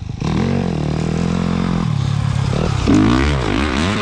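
Dirt bike engine revving hard, its pitch climbing and dropping repeatedly as the throttle is worked, loudest about three seconds in.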